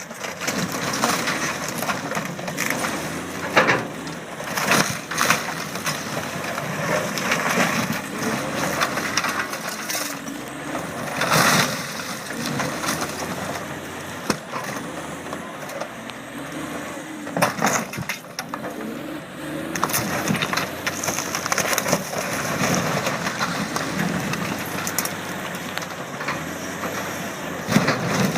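A loader crushing and breaking up a boat hull, with repeated cracking and crunching over the running machine. Several loud cracks stand out, the largest about a third of the way in.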